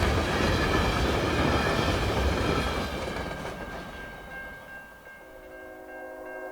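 CN train passing, its wheel and rail rumble fading away over a few seconds. About five seconds in, a steady chord of several tones sets in.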